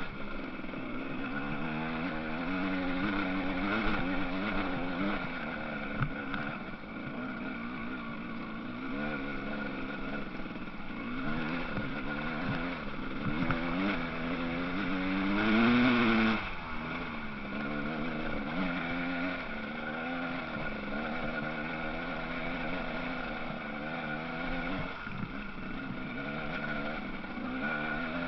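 Motocross bikes racing on a track, their engines revving up and down as they shift and take corners. One bike passes close about halfway through, briefly the loudest.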